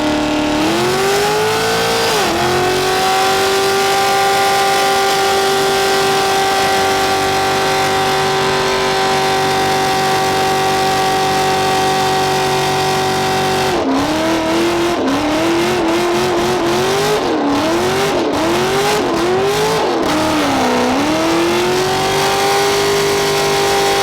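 Engine held at high revs during a burnout, with the hiss of spinning tyres. The revs stay pinned at one pitch for about eleven seconds, then rise and fall repeatedly, then settle back to a steady high pitch near the end.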